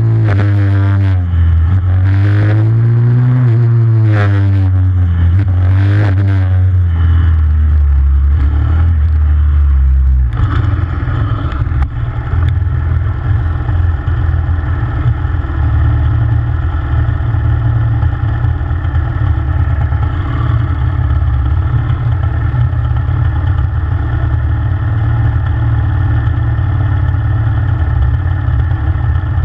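Pit bike engine revving up and down several times, then dropping abruptly to a steady, uneven idle about ten seconds in.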